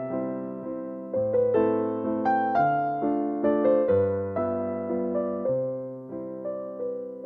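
Background piano music: a gentle, slow electric piano track of struck chords and notes that ring and fade, phrase after phrase.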